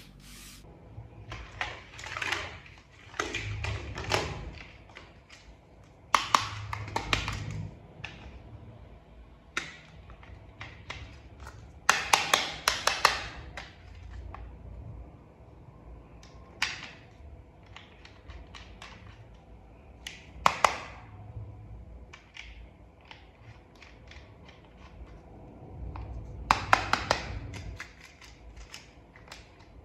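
Hard plastic toy parts being handled and snapped together: clusters of sharp clicks and rattles every few seconds, with quieter scraping and rustling between.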